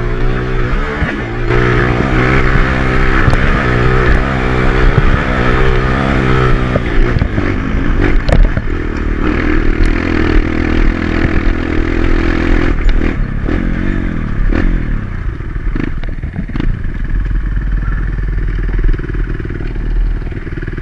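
Single-cylinder trail dirt bike engine running while riding off-road, its revs rising and falling with throttle and gear changes, with clattering knocks from the bike over rough ground.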